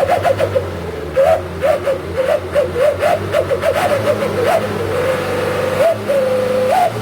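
Wolf-howl whistle exhaust (knalpot srigala) on a light diesel truck, howling as the throttle is blipped over and over: a warbling tone that jumps up and down in pitch with each blip over the low engine hum. Near the end the throttle is held and the howl runs as two longer steady notes, each rising at its end.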